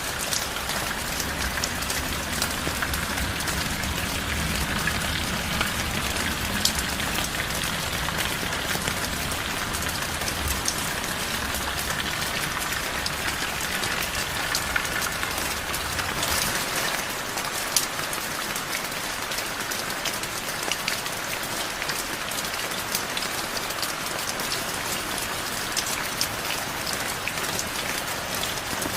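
Heavy rain falling steadily, a dense hiss of drops pattering on surfaces. A low rumble underneath fades out about halfway through.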